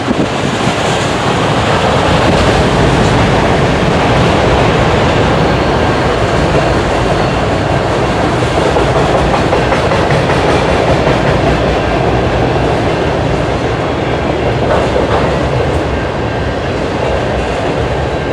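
Manifest freight train's cars rolling past, a steady, loud rumble of wheels on rail.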